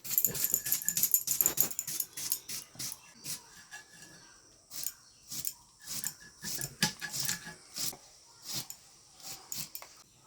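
Cutting with a blade during food preparation: a run of irregular sharp strokes, quick and dense in the first couple of seconds, then spaced out.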